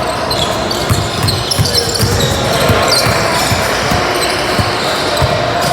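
Basketball game play on a gym floor: a ball bouncing in repeated low thuds, with short high sneaker squeaks over a steady din of voices.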